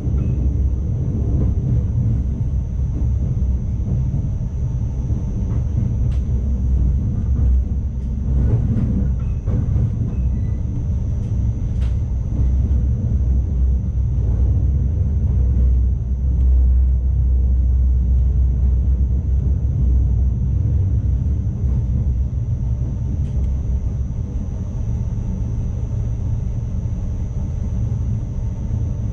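Steady low rumble of an ICMm electric intercity train running, heard from inside the driver's cab, with a faint steady high whine and a few faint clicks.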